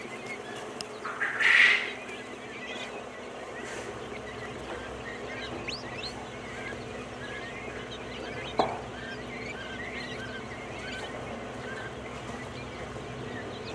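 A flock of penned quail calling: many short chirps throughout, with one louder call about a second and a half in and a single sharp knock a little past the middle.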